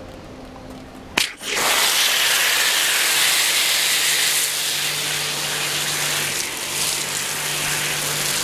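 Nilfisk high-pressure washer spraying into a car's engine bay: a sharp click about a second in, then the loud, steady hiss of the jet, with the washer's motor humming steadily underneath from about three seconds in.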